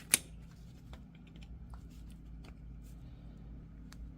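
Flathead screwdriver prying at a universal joint's retaining clip in the axle yoke: one sharp metallic click just after the start, then scattered light ticks and scrapes over a low steady hum.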